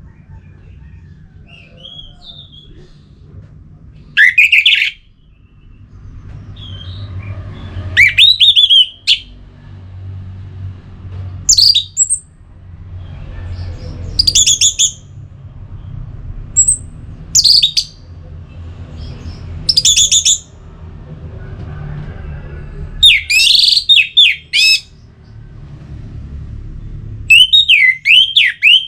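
Orange-headed thrush singing: loud, short whistled phrases of quick rising and falling notes, about one every two seconds.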